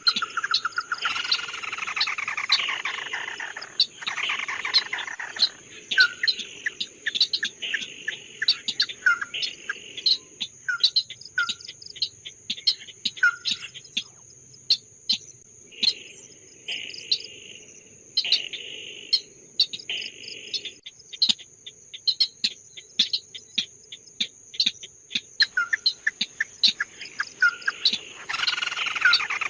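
A songbird of the kind called 'red-eyed bird' (chim mắt đỏ) singing a varied, busy song: fast trills, short chirps, sharp clicking notes and raspy chattering phrases. A steady high-pitched tone runs underneath throughout.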